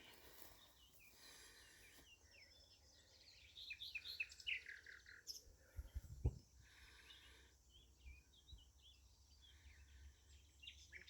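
Faint songbird song: two runs of quick, high chirping notes with a pause between. A short low thump about six seconds in.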